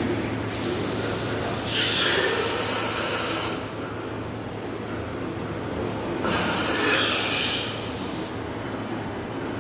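TOS Varnsdorf CNC milling machine cutting metal: a steady low machine hum with two loud passes of harsh, hissing cutting noise, the first lasting about three seconds and the second starting about six seconds in.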